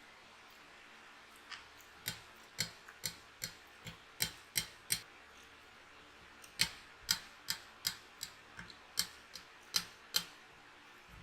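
Close-up eating sounds: sharp mouth clicks and smacks while chewing, about two a second, in two runs with a short pause around the middle.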